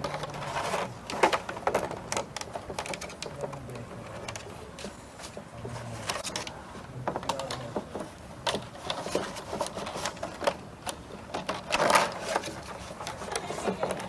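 Irregular clicks, taps and knocks of materials being handled and worked on in a small room, with a few louder knocks about a second in and near twelve seconds.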